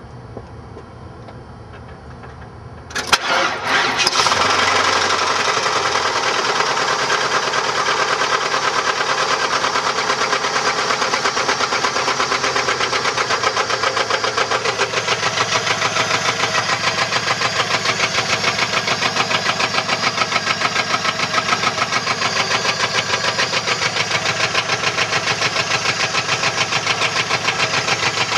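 1994 Chevrolet LT1 5.7-litre V8 starting about three seconds in, then running with a steady, rapid, even knock, the sign of a bent connecting rod.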